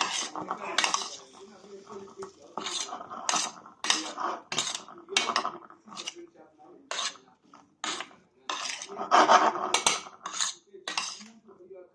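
A spoon stirring food in a cooking pot, with repeated scrapes and clinks against the pot about twice a second.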